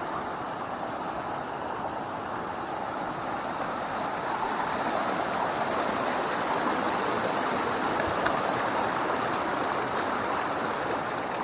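River water rushing over rocks, a steady noise that grows a little louder midway through.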